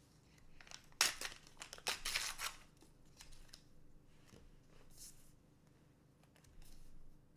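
Foil trading-card booster pack being torn open and crinkled, in a quick run of sharp rips about a second in. Softer rustles of handling follow.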